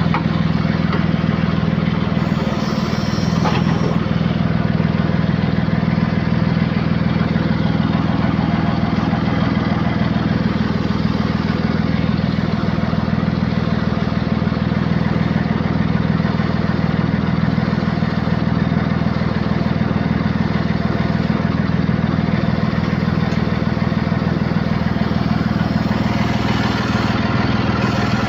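John Deere backhoe loader's diesel engine idling steadily, with an even low hum that does not change.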